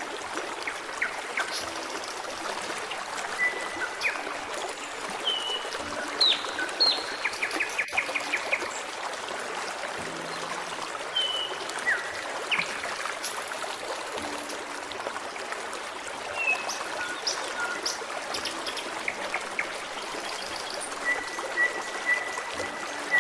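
A forest stream trickling steadily, with scattered birdsong over it: short chirps and whistles, a quick trill about seven seconds in, and a long level whistle near the end.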